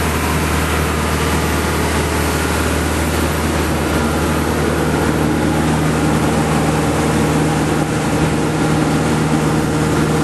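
A boat engine running steadily, a low drone, with a constant hiss of wind and water.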